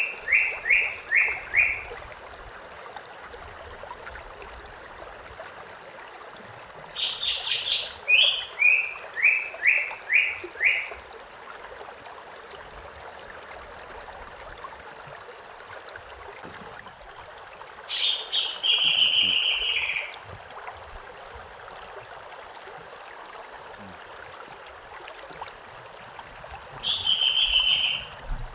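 A songbird sings a few separate phrases over the steady rush of a stream. Two of the phrases are rapid series of notes that step down in pitch. The other two are short trills.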